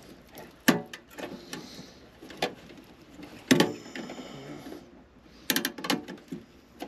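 Scattered knocks and clicks of a control board and its wiring being handled and pulled out of an air handler cabinet. The loudest knock comes about three and a half seconds in and rings on briefly, and a quick cluster of clicks follows near the end.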